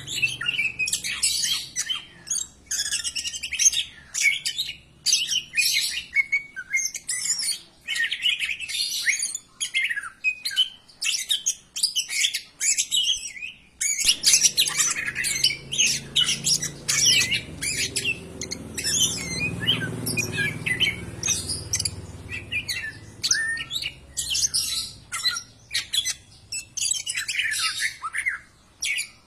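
Greater green leafbird (cucak ijo) singing a fast, continuous run of loud chirps, whistles and harsh notes, with a brief break about halfway through.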